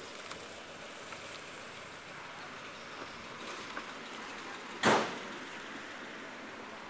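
Steady hiss of street traffic as a car passes, with one short, loud thump about five seconds in.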